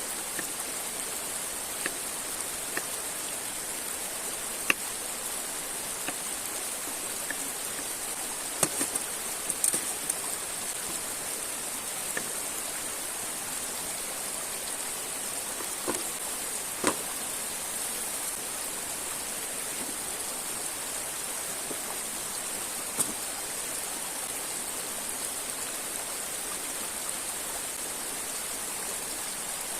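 River and waterfall water rushing in a steady hiss, with a few short sharp clicks about 5, 9–10, 17 and 23 seconds in.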